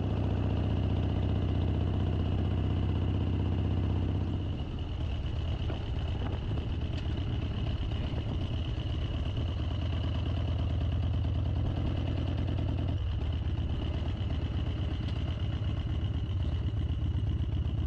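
Harley-Davidson V-twin motorcycle engine running while riding, a deep steady pulse. About four seconds in the engine note drops and turns choppier, then carries on at the lower level.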